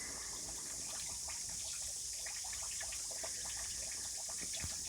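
Steady rain falling and trickling, an even hiss with scattered small drips and ticks.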